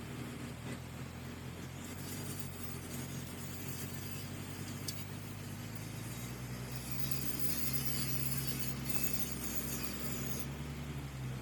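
Caterpillar 3306 inline six-cylinder diesel engine running steadily, its pitch going up a little about halfway through.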